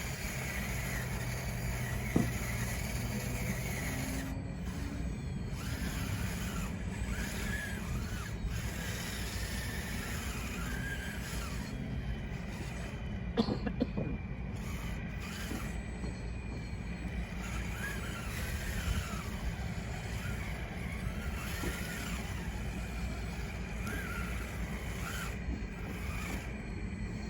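Scale RC bulldozer working, its drive motors and gearing running steadily with a squealing whine from the drive and tracks, and a sharp knock about two seconds in and again about halfway through.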